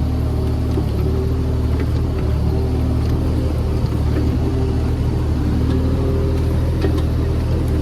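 JCB JS30 Plus mini excavator's diesel engine running steadily under work, with a higher hydraulic whine that comes and goes as the controls are worked, and a few faint clicks.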